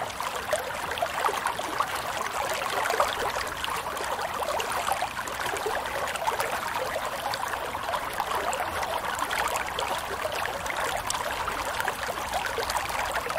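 Shallow running water babbling and trickling steadily.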